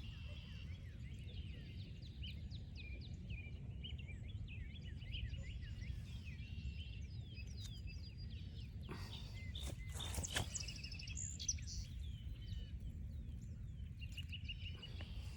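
Many short, high bird chirps, over a steady low rumble. A few sharp clicks come about nine to ten and a half seconds in.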